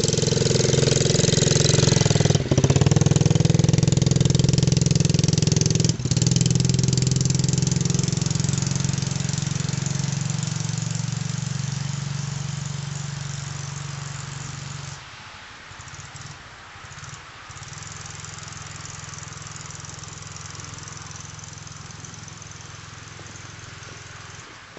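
Dirt bike engine running as the bike is ridden on snow. The note breaks briefly twice in the first few seconds, then fades as the bike moves away. It drops sharply about halfway through, runs on quieter, and cuts out just before the end.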